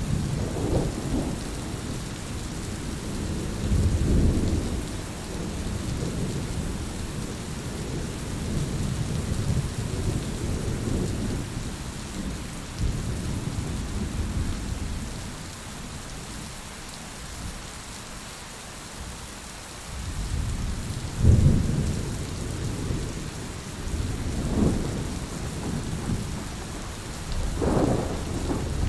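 Steady rain hissing, with rolls of thunder rumbling low again and again; the rumbling fades to a lull about halfway through, then the loudest roll comes about two thirds of the way in, followed by several more.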